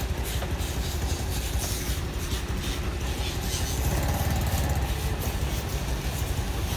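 Motorcycle engine running steadily under way, a continuous low drone with rushing noise over it.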